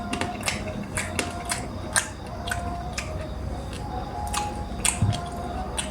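A person eating: wet mouth smacks and chewing clicks, irregular, about two or three a second.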